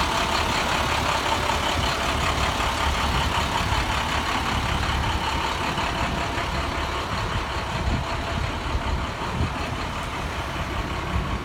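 Diesel engine of a 2013 International 4300 DuraStar box truck (MaxxForce DT inline-six) idling steadily, growing slightly quieter toward the end.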